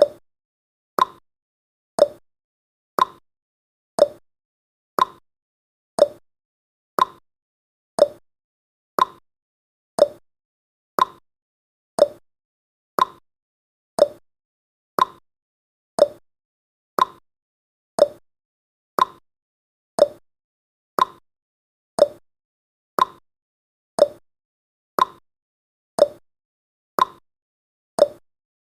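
Countdown timer's tick sound effect: one short, quickly fading tick exactly once a second, marking off the seconds.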